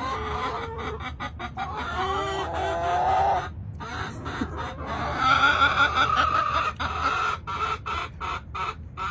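Several hens clucking and making drawn-out, wavering calls close by, with scattered sharp clicks in between.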